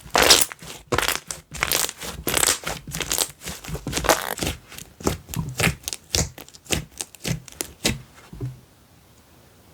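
Slime being squished and pressed by hand, giving a dense run of irregular crackling pops and clicks that stops near the end.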